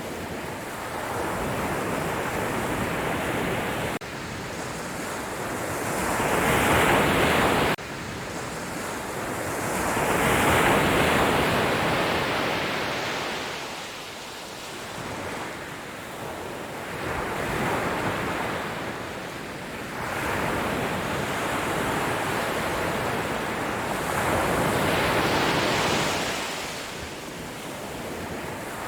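Sea waves breaking and washing onto the shore: a rushing surf that swells and ebbs every few seconds. The loudest surges come about a quarter and a third of the way in, and the sound drops off suddenly near the eighth second.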